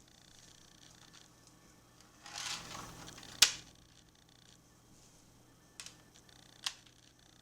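Toy alphabet letters being handled: a brief rustle, then one sharp click about three and a half seconds in and a few lighter clicks near the end.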